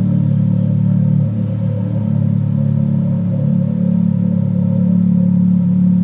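Ferrari F430 Spider's 4.3-litre V8 idling steadily after a cold start.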